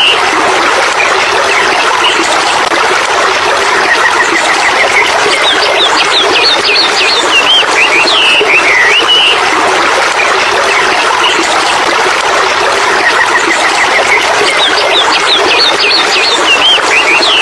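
Songbirds chirping in two bursts of quick rising and falling notes, over a steady, loud rushing of running water.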